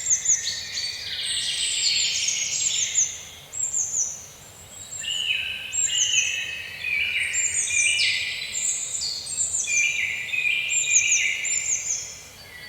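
A chorus of birds: many overlapping chirps and trills, with a high call repeated again and again in short downward-sliding notes.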